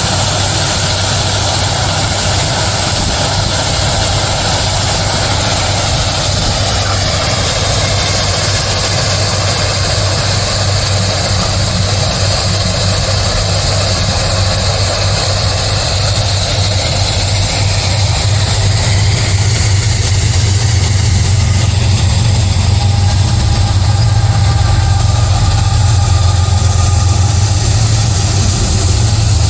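Heavy diesel engine running steadily: a constant low hum under a broad hiss, growing slightly louder in the last several seconds.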